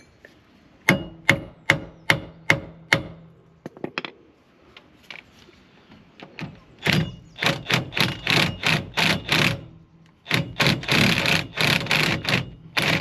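Metal-on-metal hammer blows: about six evenly spaced ringing strikes, then, from about seven seconds in, heavier and faster runs of strikes and rattling, typical of a socket being knocked onto a rounded-off bolt head.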